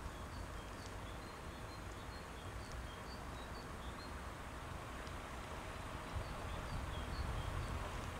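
Quiet outdoor background with low wind rumble and faint, scattered short chirps of small birds.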